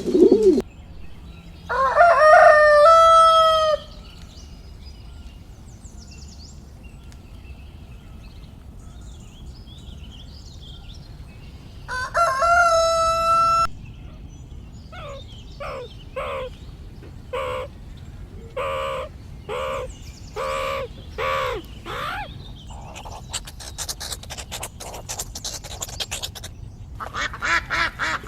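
Rooster crowing twice, each crow about two seconds long, followed by a run of short clucks from chickens and a stretch of rustling noise near the end.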